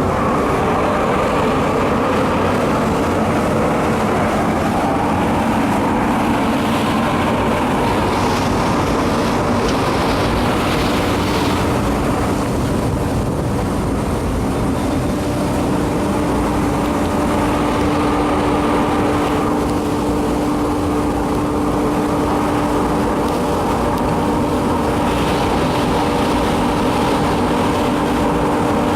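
Biomass sawdust burner running: a steady, loud mechanical roar of blower and combustion, with a steady hum that comes in about halfway through.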